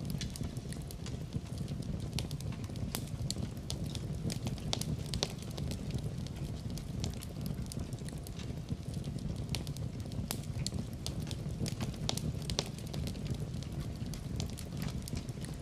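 Wood fire crackling in a fireplace: many small irregular pops over a steady low rumble.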